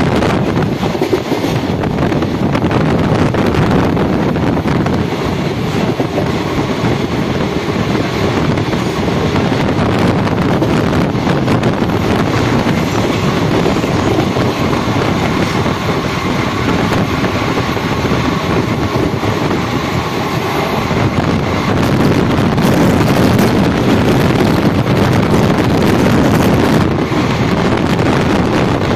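Steady running noise of a moving express passenger train, heard from an open coach door, with wind blowing on the microphone. The noise grows a little louder near the end.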